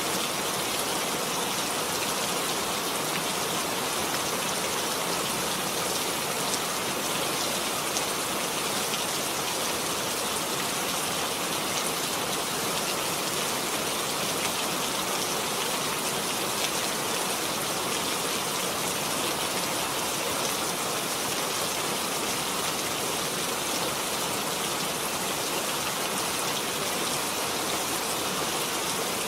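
Steady rain falling, a dense even hiss of many drops with no let-up.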